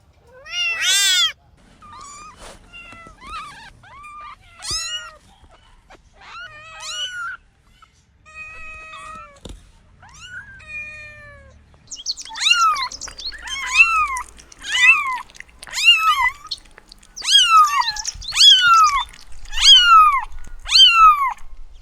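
Kitten meowing: a string of high, short mews, fainter and more varied in the first half, then from about halfway a louder run of about one falling mew a second.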